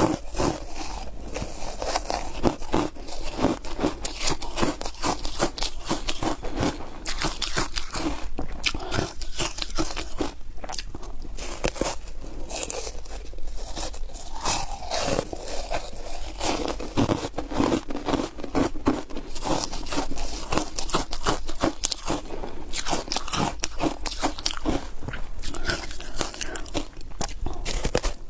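Close-up crunching of foam ice coated in matcha powder: repeated bites and chewing, dense irregular crunches.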